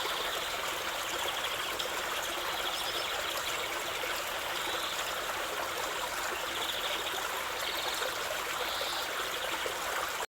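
Water of a stream or brook flowing in a steady rushing babble, cutting off abruptly near the end.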